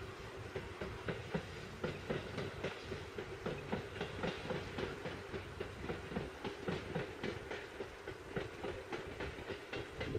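Electric train on the Seibu Railway running past, its wheels clacking over rail joints in quick succession over a steady hum.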